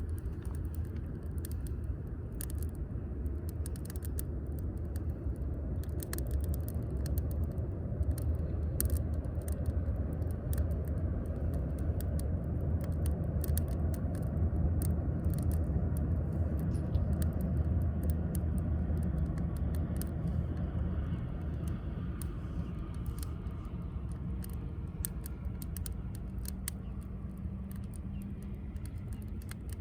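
Firewood burning in a wood grill, with frequent sharp crackles and pops over a steady low rumble.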